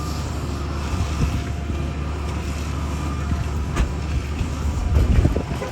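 Diesel engines of asphalt paving equipment running steadily, with a sharp knock about four seconds in and a louder spell of clanking around five seconds in.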